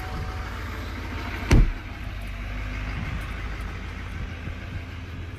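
Duramax 6.6 L V8 turbo-diesel of a 2019 Chevy Silverado 2500HD idling just after a cold start at about 36°F, with a steady low rumble. A single loud thump about a second and a half in.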